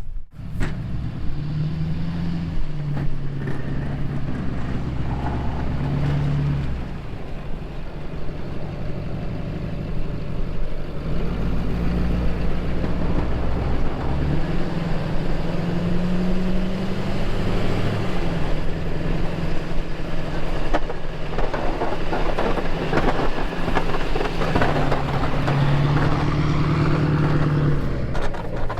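Snow plow truck's engine running, its pitch stepping up and down as it drives and works. A rougher, noisier stretch comes about three quarters of the way through.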